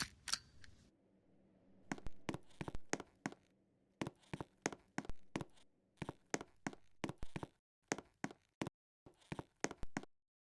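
A series of irregular sharp clicks and knocks, two or three a second, over a faint steady hum.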